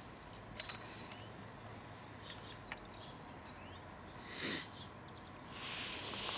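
A small bird singing short, quickly descending twittering phrases, twice, over a faint outdoor background. A soft rushing hiss swells about four seconds in and again near the end.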